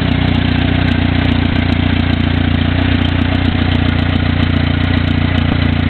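Engine of a 1937 Eimco Power Horse tractor running steadily at an even speed.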